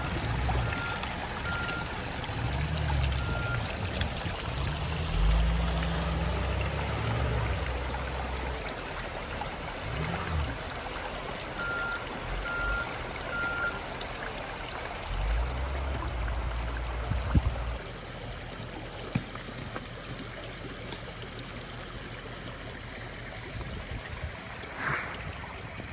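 A creek's water running steadily, with low rumbles that come and go and two short runs of faint high beeps.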